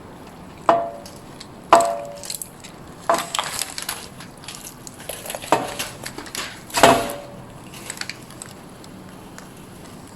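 Knife chopping on a wooden board: about five sharp, loud chops, some with a brief metallic ring, and lighter knocks in between.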